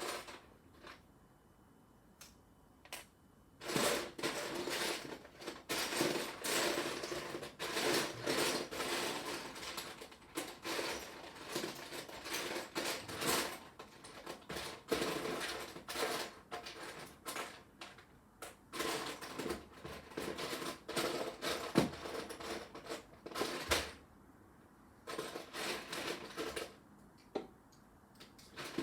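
Loose Lego bricks being rummaged through by hand, small plastic pieces clicking and rattling against each other in quick irregular clatters as a particular piece is searched for. It starts a few seconds in and stops briefly near the end before a last short burst.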